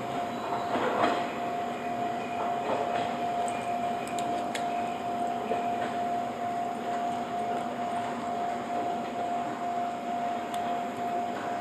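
485-series electric train running by, its rail noise carrying a steady high tone.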